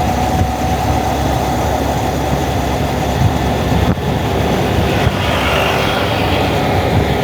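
Wind buffeting the camera microphone on a moving Honda Monkey motorcycle, over the steady running of its single-cylinder four-stroke engine.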